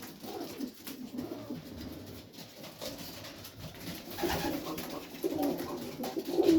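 Domestic pigeons cooing, a few low warbling calls at first and more of them from about four seconds in.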